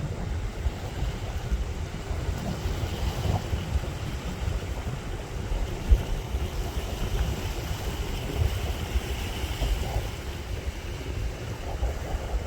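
Sea breeze buffeting the microphone in gusts, over the steady wash of waves on the shore. One brief thump comes near the middle.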